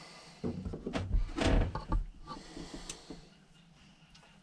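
A quick run of knocks and clatters of carburetor parts and hand tools being handled, loudest about a second and a half in, then dying down.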